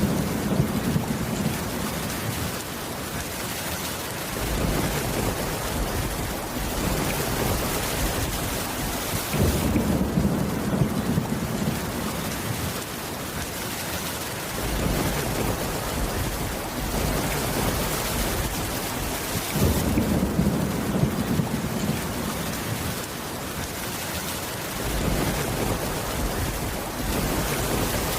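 Steady rain hissing without a break, with low rumbles of thunder swelling up about every ten seconds, each lasting a few seconds.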